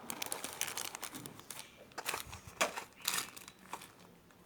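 Crinkling and rustling of packaging with sharp clicks and taps, as hands rummage through parts.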